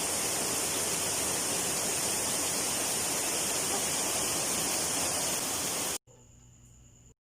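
Steady rush of a waterfall, which cuts off abruptly about six seconds in. A second of faint, steady hum follows, then silence.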